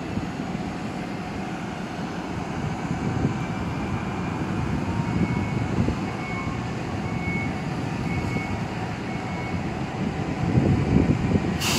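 Newag Impuls electric multiple unit rolling slowly into the platform, a steady low rumble. A faint high beep repeats about once a second for several seconds in the middle, and a short sharp hiss comes near the end.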